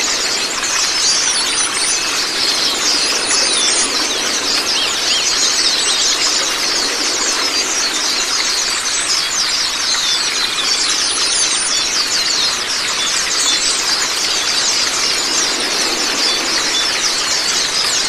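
A dense chorus of white-eyes (Zosterops) chirping and trilling rapidly and without pause, over a steady hiss of running water.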